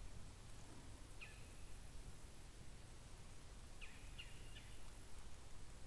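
Faint outdoor background with a few short bird chirps: one about a second in and a quick cluster of three or four near the four-second mark.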